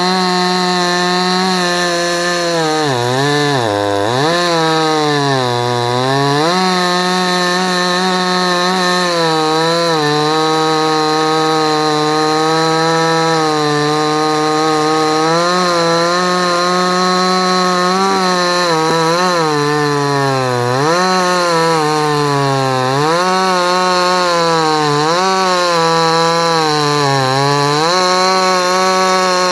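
A 58cc Chinese two-stroke chainsaw running at full throttle, its engine pitch sagging deeply and climbing back again and again as the chain bogs under load in hard timber.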